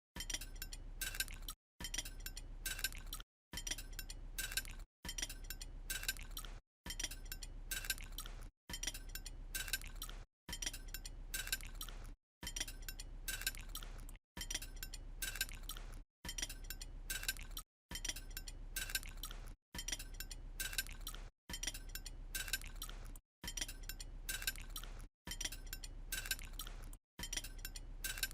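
Light clinking over a steady low hum, in a short segment that repeats about every two seconds, each repeat cut off by a brief dropout to silence.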